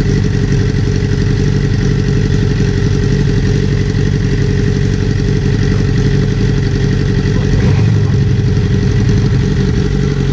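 Motorcycle engine idling steadily with the exhaust slip-on removed, running straight-piped with a loud, rapid, even firing beat.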